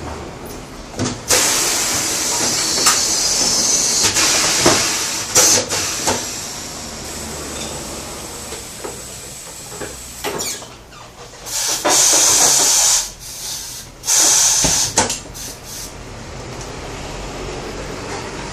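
Tyre-shop work on a car wheel: compressed air hissing in long bursts, with scattered sharp clicks and knocks in between.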